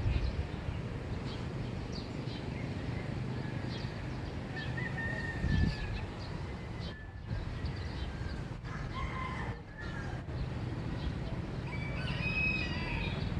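Rooster crowing, with a longer crow near the end, over a steady low rumble of background noise.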